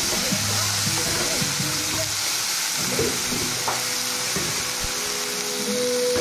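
Chopped onion, tomato and green chilli sizzling steadily in oil in a non-stick frying pan, with a spatula stirring and scraping through them in irregular strokes.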